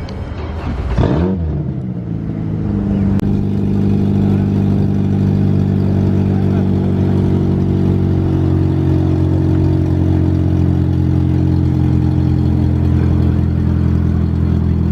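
Car engine with a brief rise and fall in pitch about a second in, then running steadily at an even pitch, louder from about three seconds in.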